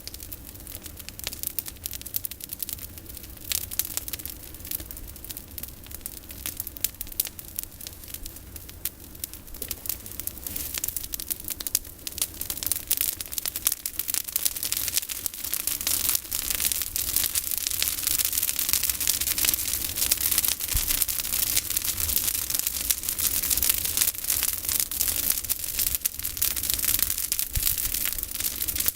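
Bonfire of pruned olive branches crackling: a dense run of pops and snaps that grows louder about halfway through.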